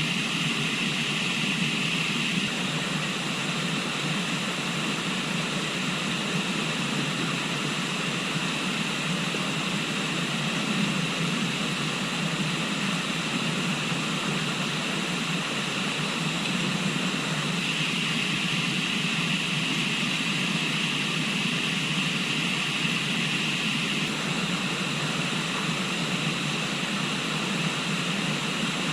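A river flowing, a steady rushing of water with a higher hiss that swells near the start and again past the middle.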